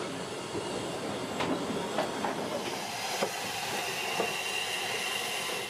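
A train moving slowly during shunting: a steady hiss with scattered clanks and clicks from the wagons, and a faint high squeal in the second half.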